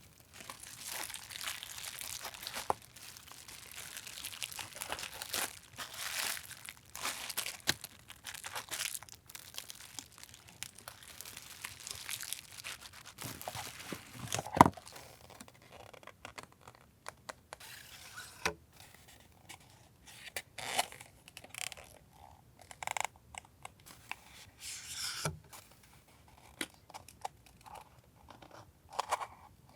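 Paper and plastic packaging being handled close up: crinkling, rustling and tearing, dense at first and then more scattered. A single sharp knock lands about halfway through.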